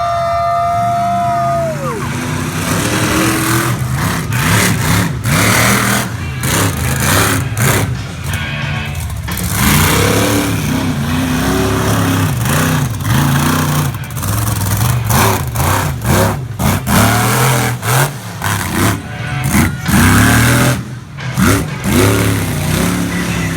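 Monster truck engine revving hard at full throttle, its pitch rising and falling again and again, with a noisy haze and many sharp cracks over it.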